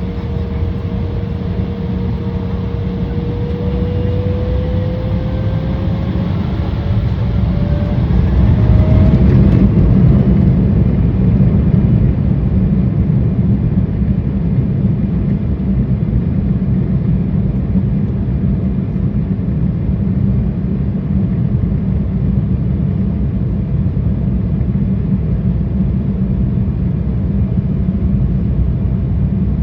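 Inside the cabin of an Embraer 175 on its takeoff run: a whine rising slowly in pitch as the GE CF34 turbofans spool up to takeoff thrust, over a loud steady rumble that grows to its peak about ten seconds in and then holds.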